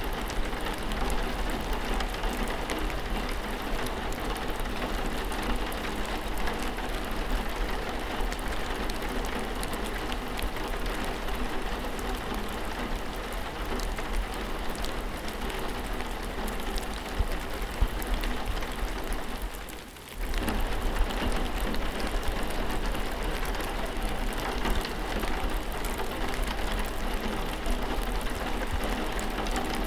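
Steady rain falling, with many separate drops ticking on a surface over a constant low hum. The sound drops away briefly about twenty seconds in, then comes straight back.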